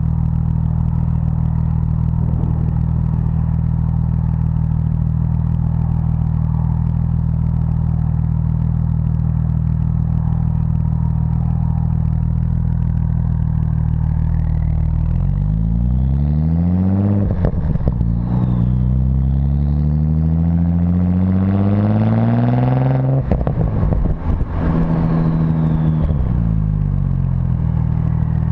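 APR Stage 2+ tuned Audi S4 with dual exhaust, idling steadily and then revved. The first rev, about fifteen seconds in, climbs briefly. The second rises longer to a held high rev that cuts off sharply, and the engine settles back to idle near the end.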